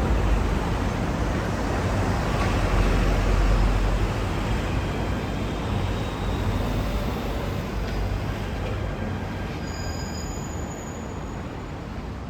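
Electric metro train running past, a steady rumble that slowly fades away, with faint high-pitched whines toward the end.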